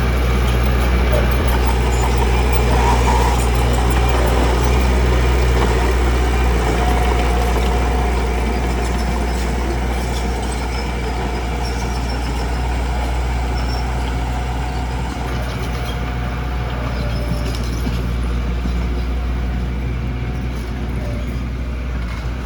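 Heavy diesel construction machinery running steadily with a deep engine drone, a little louder in the first third.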